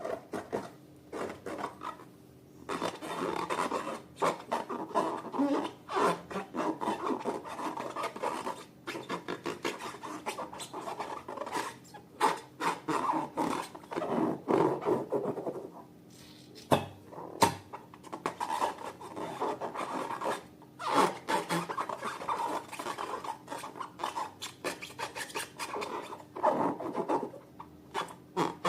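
Slime being kneaded and mixed by hand: irregular sticky crackling and clicking, with a few short pauses.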